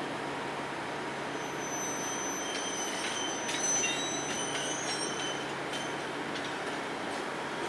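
Train rolling past with a steady rumble, its wheels giving off thin high squeals and a scatter of sharp clicks from about a second and a half in to about six seconds.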